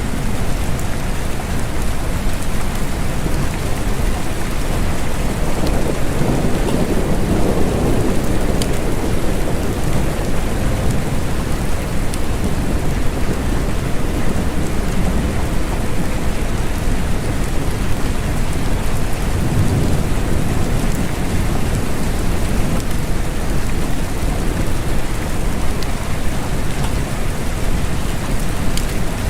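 Steady rain falling, an even hiss without a break, with a low rumble swelling twice, about a quarter of the way in and again around two-thirds of the way in.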